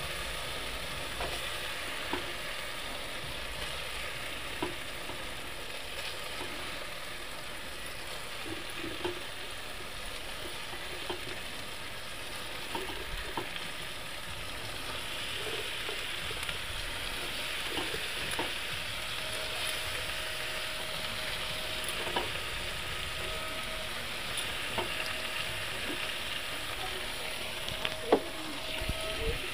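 Masala sizzling in oil in a metal kadai as pieces of raw duck meat are added and turned, with scattered clicks and knocks of the metal spatula against the pan. A few sharper knocks come near the end.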